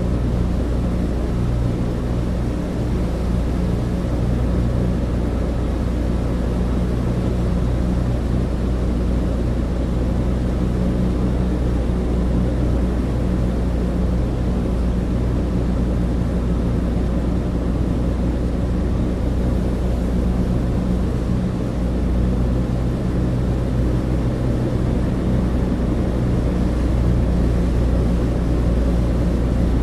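Cabin interior of a Douglas DC-3: the steady low drone of its twin radial piston engines and propellers, with a constant deep hum and rushing noise over it.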